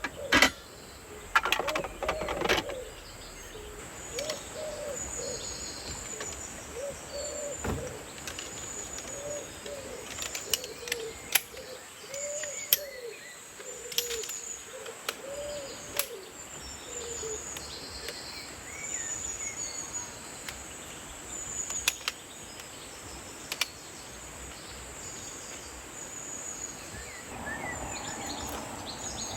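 Forest birdsong: a bird gives short, low, arched hooting notes about once a second, with fainter high chirps. Sharp clicks and knocks are scattered through it, loudest in the first couple of seconds.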